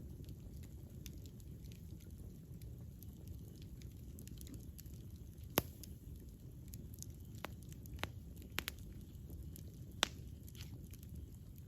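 Wood fire burning with a steady low rumble, broken by scattered sharp crackles and pops of the burning wood. The two loudest pops come about five and a half and ten seconds in, with a quick cluster of smaller ones around eight seconds.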